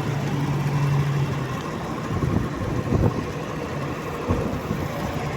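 2022 Jeep Grand Cherokee idling with the air conditioning running while a can of refrigerant is charged into the system, a steady running noise with a few knocks near the middle.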